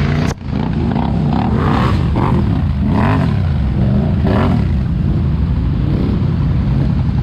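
Truck engine revving, its pitch rising and falling several times, with a brief dropout about a third of a second in.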